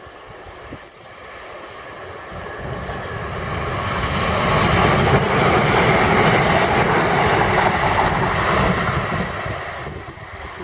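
Electric passenger train passing along the track: the rumble and rush build over a few seconds, hold loudest for several seconds, then fade near the end.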